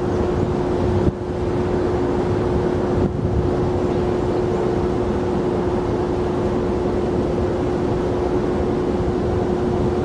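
Steady jet airliner engine noise at the airport: a constant rush with a steady whine held at one pitch, briefly dipping about a second in and again about three seconds in.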